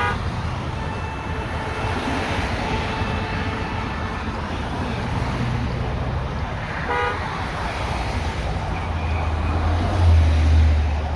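Highway driving noise, a steady rumble of engine and tyres, with a short horn toot about seven seconds in and a louder low rumble near the end.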